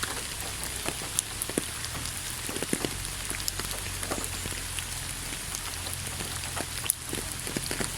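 Steady rain: an even hiss with many separate drops ticking and pattering irregularly on a surface.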